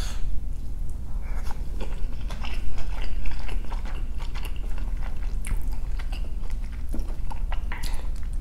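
Close-miked chewing of a mouthful of chicken pad thai rice noodles: soft wet mouth clicks and smacks, over a steady low hum.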